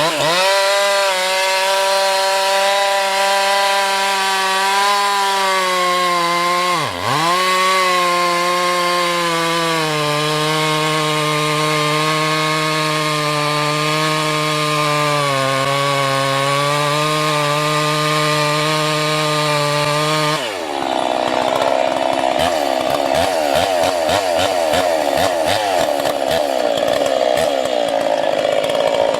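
A high-revving wood-cutting power tool running at a steady high pitch, dipping sharply and recovering about a quarter of the way in. About two-thirds through it turns rough and grinding as it bites into wood.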